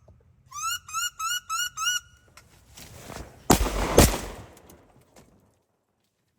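A quick series of five rising, squealing wood duck calls, then two shotgun shots about half a second apart.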